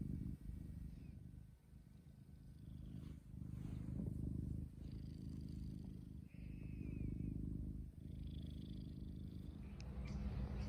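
A cat purring close to the microphone, the low rumble swelling and easing in cycles of about a second each.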